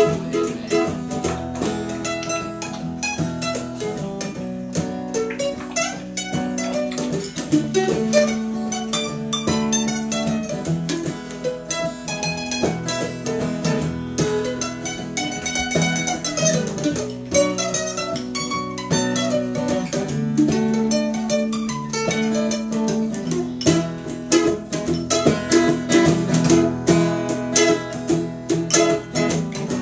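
Acoustic guitar and mandolin playing an instrumental break, with a quickly picked melody over strummed chords and no singing.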